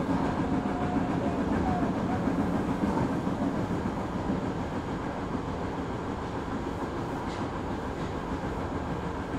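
Kita-Osaka Kyuko 9000 series electric train running, heard from inside the car: a steady rumble of wheels on rail that eases slightly in loudness a few seconds in.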